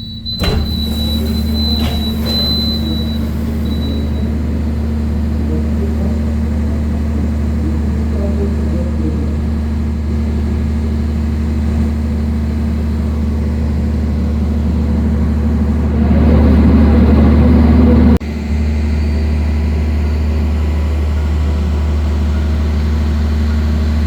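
Steady low rumble and hum inside a passenger train carriage. About two thirds of the way through it swells louder for a couple of seconds, then drops suddenly.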